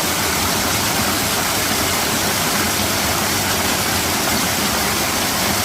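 Mountain valley stream rushing steadily, a loud, even wash of water noise that does not change.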